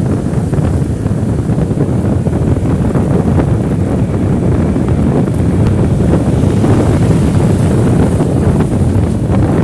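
Wind rumbling on the microphone.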